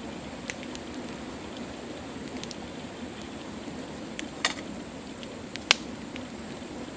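Wood campfire crackling: a steady hiss broken by a handful of sharp pops and snaps, the loudest a little before the end.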